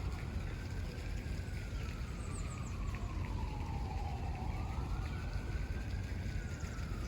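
Emergency vehicle siren in a slow wail, rising and falling about every four to five seconds, over a steady low rumble.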